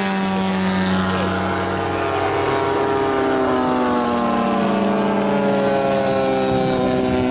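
Large RC model airplane motor being run up on the ground, holding a steady pitch and then creeping slowly higher from about two seconds in.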